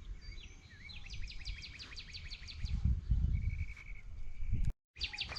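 A songbird singing a rapid series of repeated chirps, about six a second, then holding a steady whistled note, over low thumps from the walking camera operator. The sound cuts out for a moment near the end.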